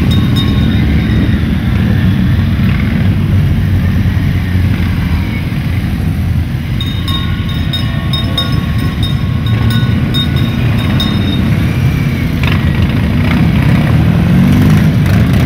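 Motorcycle engines running in a steady low rumble from a large group of bikes, with one engine revving up near the end.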